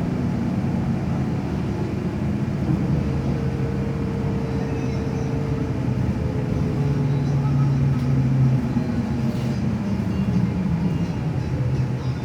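Steady low rumble of a running vehicle, with a low hum that drifts slightly in pitch.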